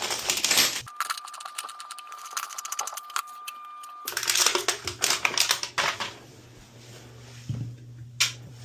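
Light clicking and crinkling of small hardware being handled, as toilet closet bolts and their washers are fitted onto the flange. The clicks come in quick scattered runs, with a quieter stretch from about one to four seconds in.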